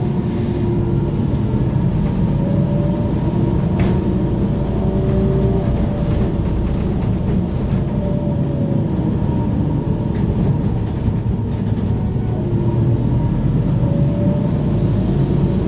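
Cabin sound of a BKM-32102 trolleybus under way: a steady rumble of the ride, with the electric traction motor's whine gliding up and down in pitch as it speeds up and slows. Two short sharp knocks sound, about four seconds in and about eleven seconds in.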